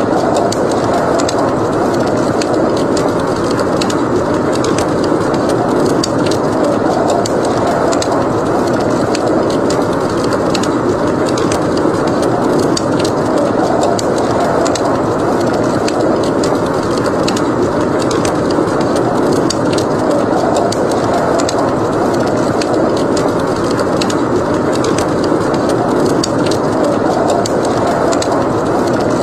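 Steady blizzard wind that swells slowly, with frequent small crackles and pops of a burning wood fire over it.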